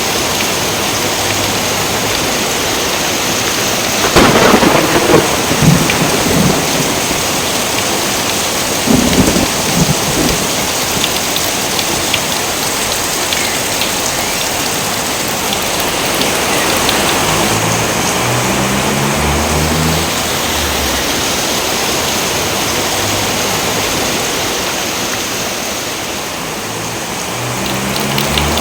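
Steady heavy rain, with thunder: a loud clap and rumble about four seconds in and a shorter, weaker one near ten seconds.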